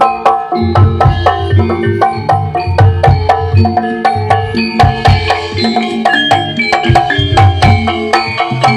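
Javanese gamelan music: struck metallophone keys play a quick run of pitched notes over low drum strokes, in a steady rhythm.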